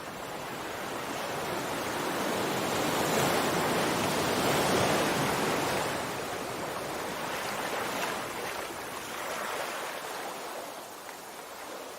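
Sea surf: a wave washing in, its rush swelling to its loudest about four to five seconds in and then slowly receding.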